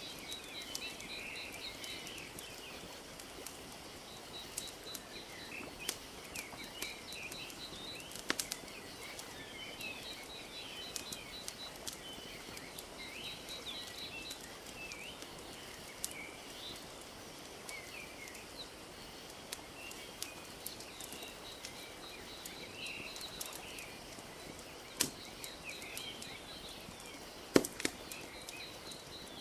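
Wood fire crackling with scattered sharp pops, the loudest a couple of seconds before the end, over a steady hiss of lake water lapping. Small birds chirp throughout, with a repeated high ticking call now and then.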